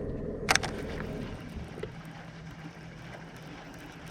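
A boat motor running steadily with a low rumble, and a single sharp click about half a second in.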